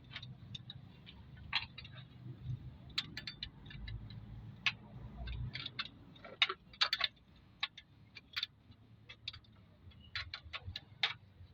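Irregular light metallic clicks and taps of tools and engine parts being handled during engine assembly, over a low rumble in the first half.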